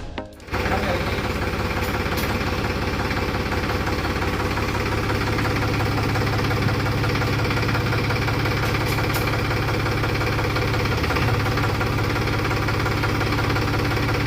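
Tractor diesel engine idling steadily with an even low throb.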